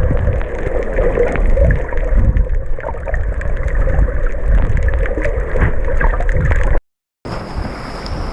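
Muffled underwater noise heard through a GoPro: a dense low rumble with a hum-like band in the middle range and scattered crackling clicks. About seven seconds in, the sound cuts out for half a second and comes back thinner, with steady high tones over it.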